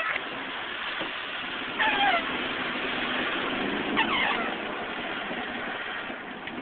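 Steady road and engine noise heard inside a moving car, with a short high squeak about every two seconds.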